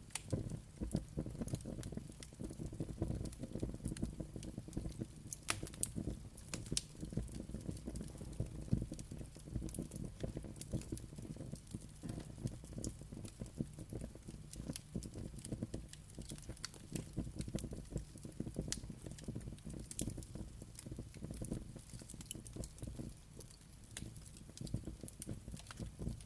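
Wood fire burning with a steady low rumble and irregular sharp crackles and pops throughout.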